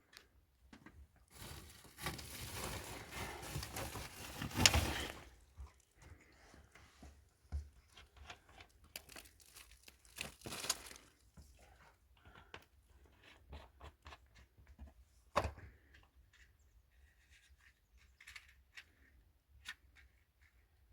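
Handling noise: two spells of rustling, crinkling or tearing, the first about three seconds long with a sharp click near its end and the second shorter, then scattered light knocks and one sharper knock about 15 seconds in.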